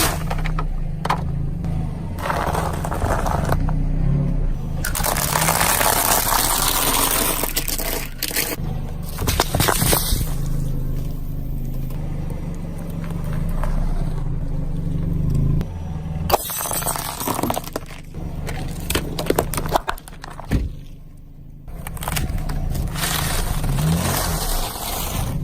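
Repeated crunching, crackling and scraping of brittle things being crushed, with sharp cracks, over a steady low hum.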